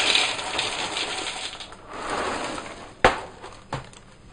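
Dry Weetos cereal hoops pouring and rattling into a bowl. About three seconds in comes one sharp knock, the loudest sound, with a smaller click just after.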